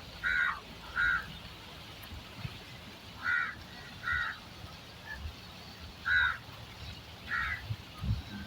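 A bird calling: six short calls in three spaced pairs, with a low bump near the end.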